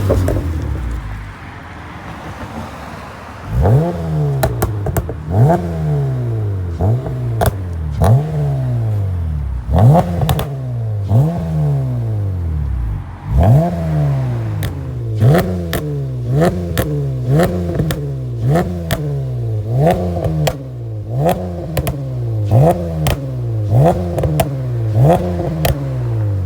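Honda Accord 3.5 L V6 through a precat-deleted, Magnaflow-resonated custom exhaust, idling for a few seconds and then revved in quick blips about once a second. Each blip rises sharply and falls back to idle, with sharp pops as the revs drop.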